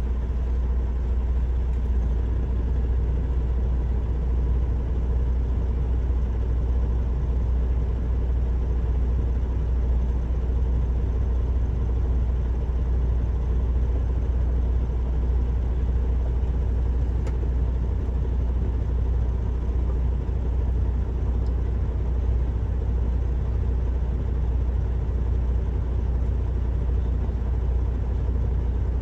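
Semi truck's Cummins diesel engine running steadily, a continuous low drone with no changes.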